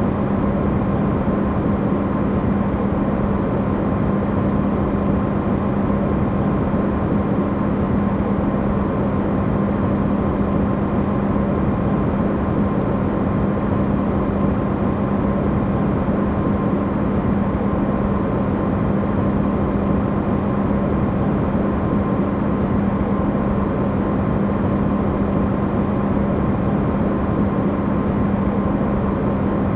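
Electrolux refrigerator running, recorded amplified: a steady, unchanging hum with a strong low tone and a fainter higher one over even, rushing noise.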